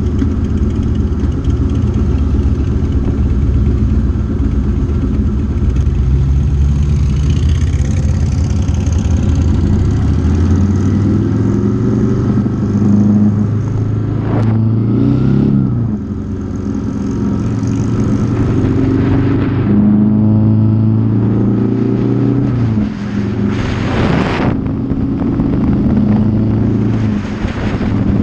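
Motorcycle engine running under way. Its note climbs slowly as it accelerates and drops back twice, about halfway through and again near the end. A short rushing swell comes twice, the louder one near the end.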